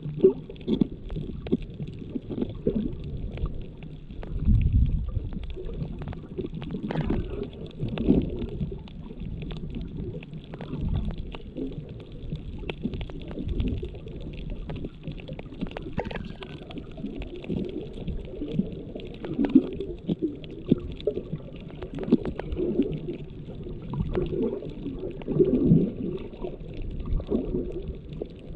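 Water movement heard underwater through the built-in microphone of a GoPro Hero7 with no waterproof case: an irregular, muffled low rumbling and gurgling with scattered short knocks.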